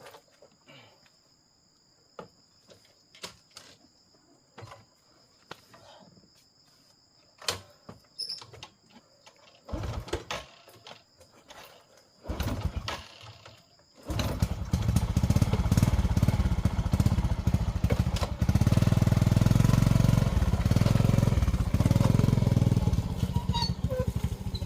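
Scattered faint clicks and knocks over a faint steady high tone, then about halfway through an engine starts up abruptly and runs loud and steady.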